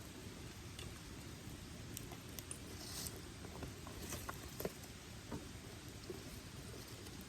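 Wood campfire crackling with scattered sharp pops over a steady low rush, with a short hiss about three seconds in.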